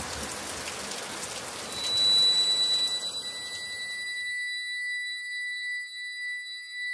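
A dense hiss like heavy rain or static cuts off suddenly about four seconds in. A steady high-pitched ringing tone comes in about two seconds in and holds on.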